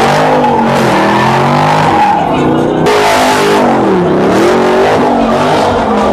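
A car engine revving up and down repeatedly over the steady hiss of skidding tyres.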